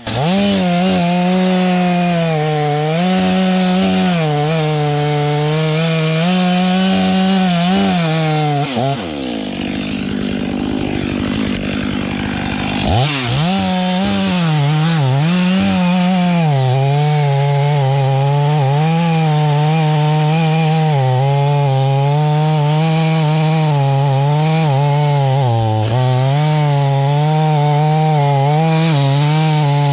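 Chainsaw running at high revs while cutting through thick wood, its pitch dipping and wavering as the chain loads up in the cut. About nine seconds in the engine note falls away for a few seconds, then revs back up and keeps cutting.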